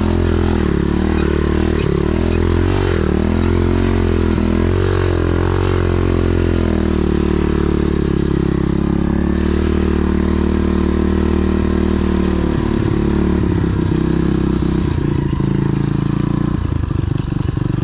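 125cc pit bike's single-cylinder four-stroke engine running under throttle, its pitch rising and falling for the first several seconds as the rear tyre spins for grip on the wet trail. It then holds lower and steadier, and runs choppy and uneven near the end as the bike slows.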